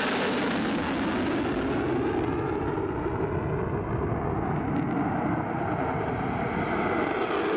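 Aircraft engine roar, loud and steady, its hiss dulling a few seconds in and growing bright again near the end.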